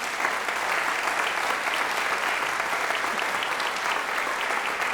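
Audience applauding steadily in a hall, sustained clapping from a large crowd.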